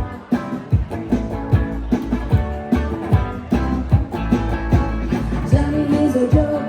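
A band playing an upbeat rock and roll song: guitar over a steady drum beat, with a sliding vocal or guitar line coming in near the end.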